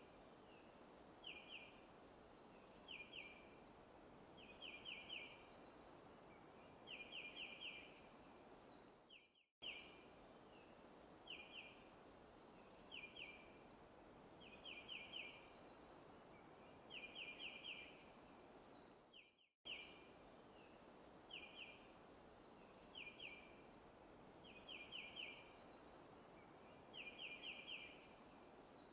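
Faint looped forest ambience: a bird calling in short groups of quick high chirps, the groups growing from one or two notes to four, over a steady soft hiss. The recording cuts out for an instant and restarts the same pattern about every ten seconds.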